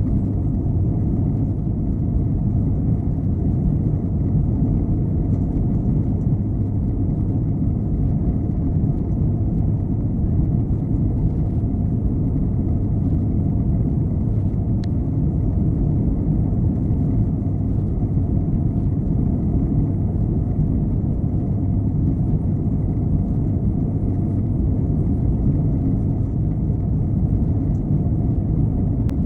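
Steady low rumble inside the cabin of an Airbus A321-211 airliner, the drone of its jet engines and airflow heard from a seat behind the wing. It holds an even level throughout, with one faint tick about halfway through.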